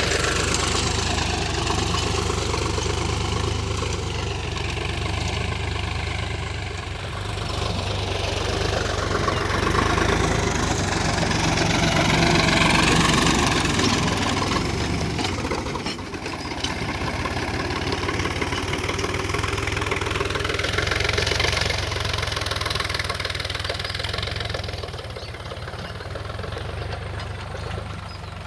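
Tractor engine running steadily while ploughing, with a rushing noise that slowly swells and fades.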